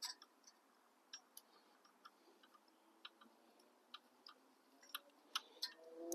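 Near silence broken by faint, irregular light clicks and taps of hand tools and exhaust fasteners being handled.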